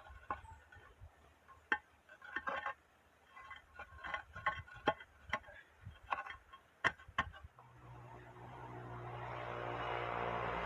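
Irregular sharp clinks and taps of hard objects knocking together, a few a second, then background music fading in over the last few seconds.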